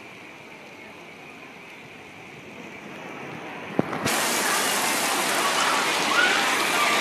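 Heavy rain falling on pavement, then, after a single knock about four seconds in, an abrupt jump to a much louder downpour on a tent's canvas roof with water pouring off its edges.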